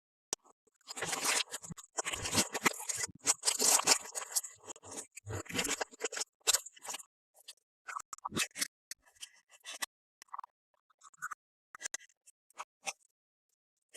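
Toy packaging being handled and opened: dense scraping and scratching for about the first six seconds, then scattered light taps and clicks.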